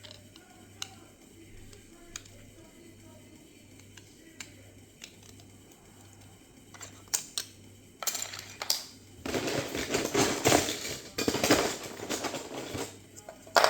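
Loose plastic Lego pieces clicking now and then, then about eight seconds in a few seconds of loud, dense clattering as hands rummage through a pile of Lego bricks.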